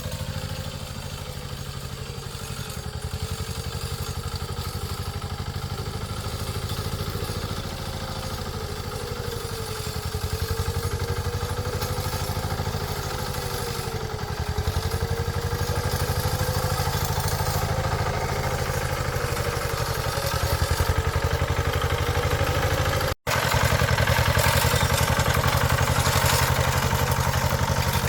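A small engine running steadily, its pitch wavering gently up and down. It cuts out for an instant a little over twenty seconds in, then carries on louder.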